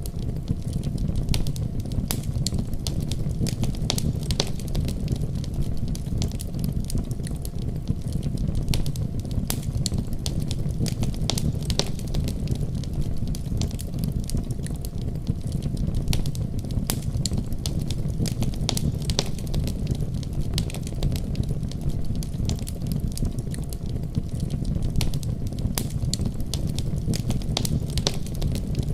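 Wood fire burning in a fireplace: a steady low sound of the flames with frequent sharp crackles and pops.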